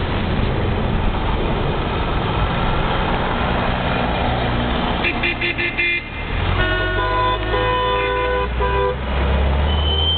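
Car engines and road noise, then a quick run of short car-horn toots about five seconds in, followed by a longer honk of a couple of seconds with brief breaks.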